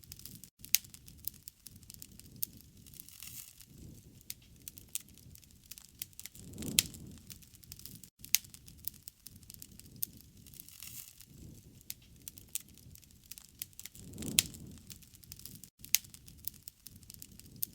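Campfire burning, crackling with many sharp pops and snaps. A low rushing swell comes back about every seven and a half seconds, the same pattern repeating.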